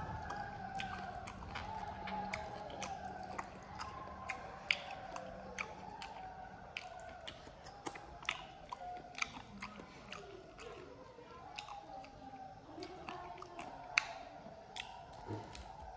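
A person chewing and biting cooked chicken feet close to the microphone: many small, irregular clicks and smacks of eating.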